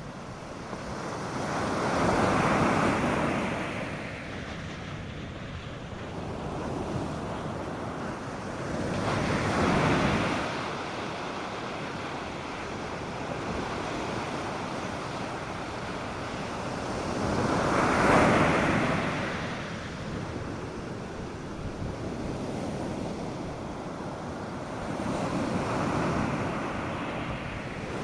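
North Sea surf breaking on a sandy beach: four waves swell up and wash out over about half a minute, each lasting a few seconds, over a steady hiss of surf. Light wind buffets the microphone.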